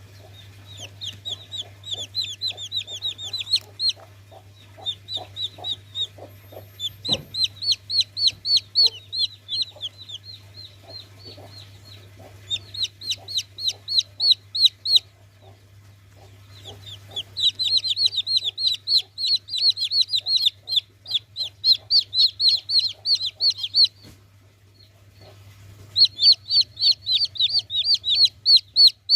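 Baby chicks peeping: high, quickly falling peeps, several a second, in bouts of a few seconds with short pauses between. A steady low hum runs underneath, and there is one knock about seven seconds in.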